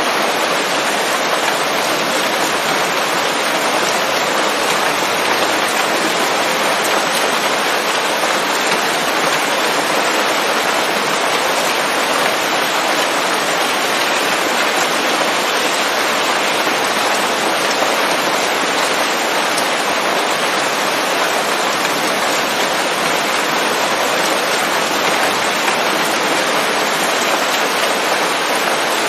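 Steady, heavy rain falling on leaves, a dense even patter without thunder or separate drops standing out.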